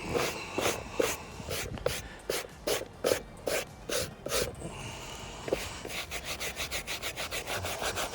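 Hard-bristled brush scrubbing cleaning solution into car carpet, with steady back-and-forth strokes about two or three a second, then quicker, lighter strokes from about six seconds in.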